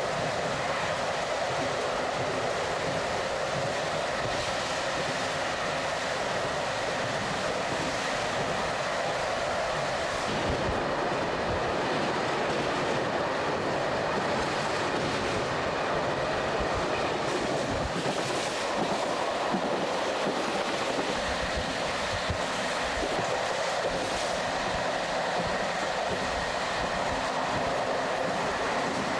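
Passenger train running along the track: a steady rolling rumble with the wheels clicking irregularly over rail joints.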